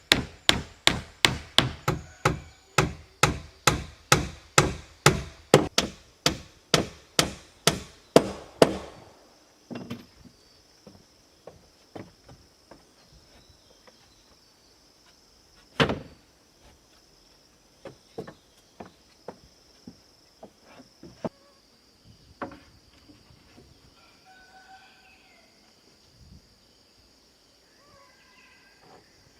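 A hand tool striking wood fast and evenly, about three blows a second, stopping about nine seconds in; after that, only occasional single knocks on wood, one louder than the rest. Insects buzz steadily underneath once the strikes stop.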